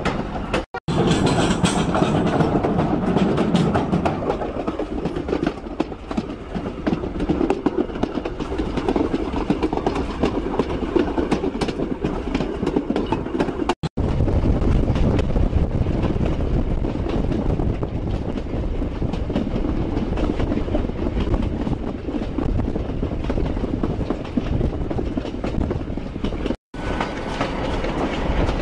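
PeruRail Andean Explorer passenger train running along the track, heard from aboard the coaches as a steady rumble of wheels on rails. The sound drops out to silence for a moment three times.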